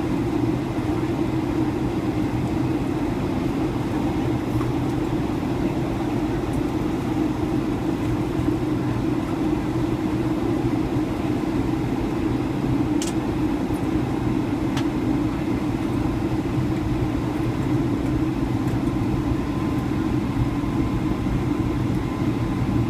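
Steady cabin noise inside a Boeing 757: the drone of the jet engines and rushing air, strongest in the low-mid range, with a faint steady hum on top.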